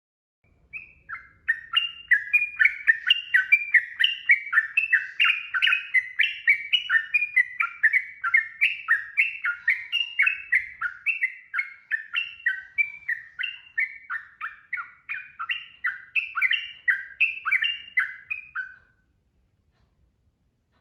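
Sooty-headed bulbul (trucukan) singing a long unbroken run of short, bubbly up-and-down notes, about three a second, the fast continuous 'ropel' song; it stops shortly before the end.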